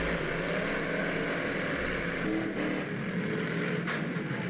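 Engines of old full-size cars running in a demolition derby, a steady engine drone.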